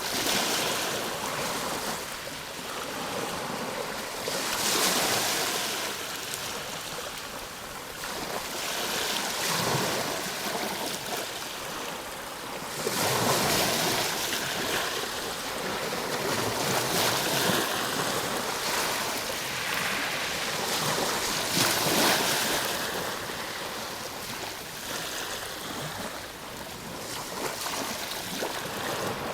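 Ocean waves breaking and washing on a shore, the surf swelling and receding every few seconds in a continuous hiss.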